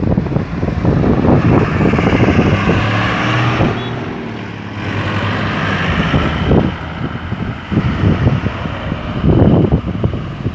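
Road traffic passing: vehicle engines and tyre noise swelling as vehicles go by, with wind buffeting the microphone in gusts.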